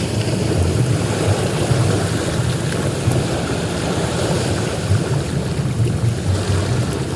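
Ocean waves washing onto a beach: a continuous surf roar with a heavy low rumble that swells and eases slightly.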